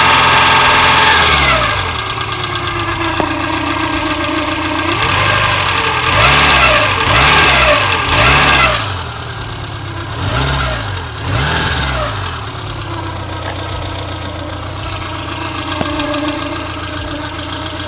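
ZAZ Slavuta car engine running with a whistle. It comes down from high revs to idle in the first two seconds, then is blipped about five times in quick succession around the middle, each rev rising and falling, before settling back to a steady idle.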